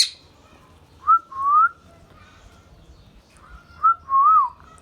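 Indian ringneck parrot whistling two clear two-note phrases, one about a second in and one near the end: each a short high note followed by a longer note that slides up, the second time wavering.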